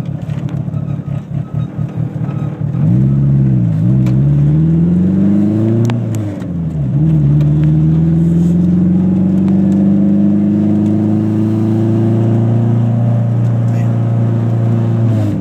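Eagle Talon TSI's turbocharged 2.0-litre four-cylinder, fitted with a big turbo run at low boost, making a hard acceleration pull. It runs at low revs for a couple of seconds, then the revs climb briefly, drop at a gear change about six and a half seconds in, and rise long and steadily until another shift at the very end.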